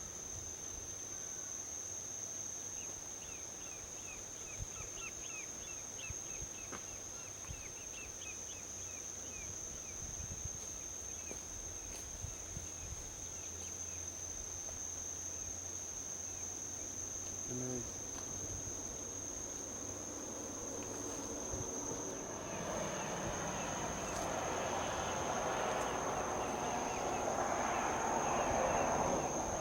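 Steady high-pitched drone of crickets or other insects, with scattered chirps, over a low rumble of distant highway traffic. In the last third a vehicle passes on the highway: its noise swells to a peak near the end, then eases off.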